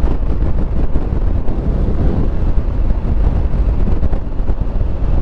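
Steady wind rush and road noise from a Honda Africa Twin motorcycle ridden at speed, heard through a helmet microphone.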